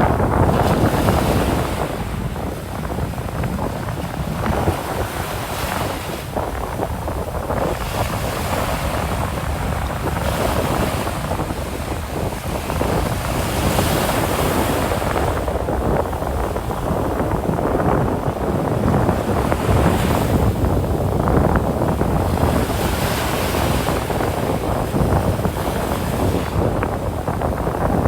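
Ocean surf washing onto a sandy beach, swelling and easing every few seconds, with wind buffeting the microphone.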